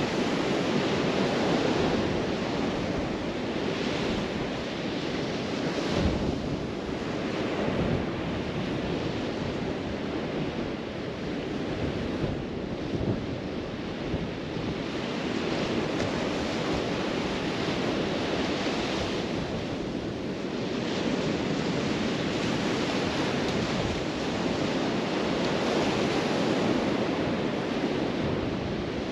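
Surf washing onto a beach in slow swells, with wind buffeting the microphone and an occasional gust thump.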